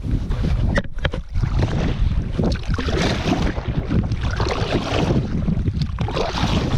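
Wind buffeting the microphone on open water: a steady low rumble, with rushing gusts that swell about three seconds in and again near the end.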